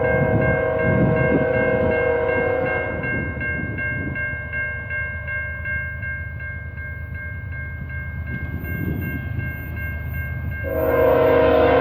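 CN freight locomotive's horn sounding a multi-note chord, over the train's rumble. The horn stops about three seconds in and comes back louder near the end. A steady high ringing runs under it.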